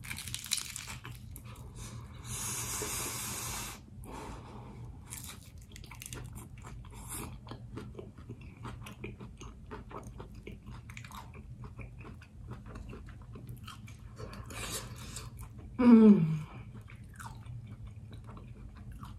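Close-miked biting into and chewing a fried egg roll stuffed with cheesy chicken pot pie filling: a run of wet mouth clicks and smacks, with a breathy hiss lasting over a second about two seconds in. About sixteen seconds in comes a short, falling 'mm' hum, the loudest sound.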